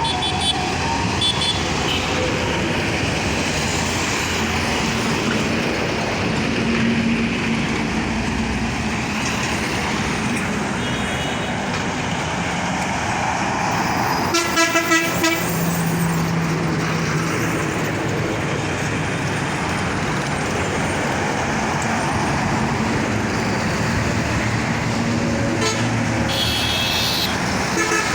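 Busy road traffic: vehicle engines and tyre noise running steadily, with horns tooting now and then and a quick series of short, loud horn blasts about halfway through.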